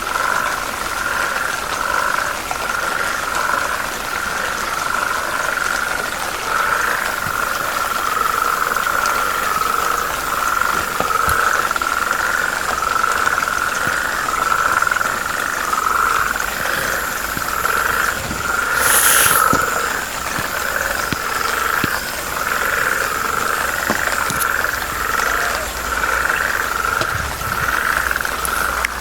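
Chorus of frogs calling, many overlapping pulsed calls at about one pitch going on without a break. A brief noisy burst cuts in about two-thirds of the way through.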